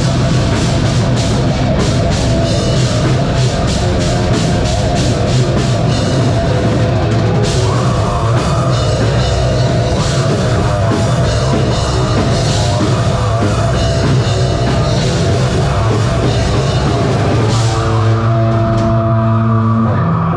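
Live metal band playing loud, with fast drum-kit hits under distorted guitars. Near the end the drums stop and a held chord rings on.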